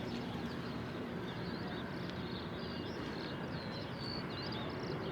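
Small birds chirping in many short, high calls over a steady background hum of distant noise.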